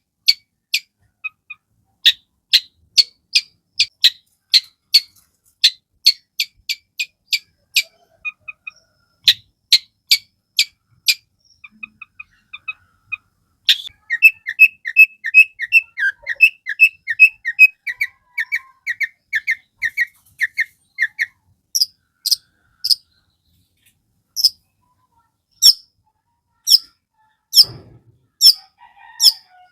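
Long-tailed shrike singing: sharp, separate calls about two a second, then a faster run of rising notes in the middle, then spaced calls again.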